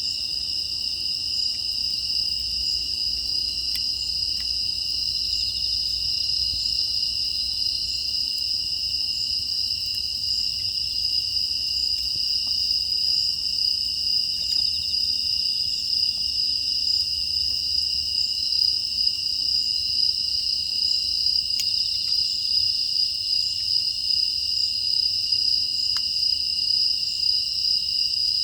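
Steady chorus of crickets and other grass insects, one unbroken high trill, with a few faint clicks scattered through it.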